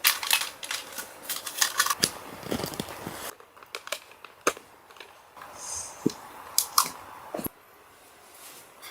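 Rustling, crinkling and small clicks of objects being handled, over a steady hiss that cuts off a little over three seconds in.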